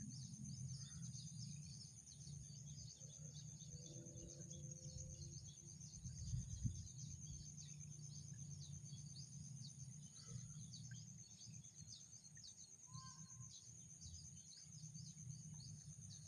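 Faint outdoor ambience: a steady, high, fast-pulsing insect trill with a fainter higher tone, many short chirps of insects and birds, and a low rumble underneath.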